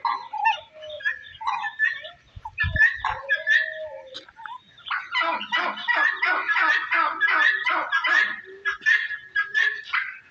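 Many birds chattering at once, short overlapping calls that grow densest from about five seconds in, with a brief low knock near the three-second mark.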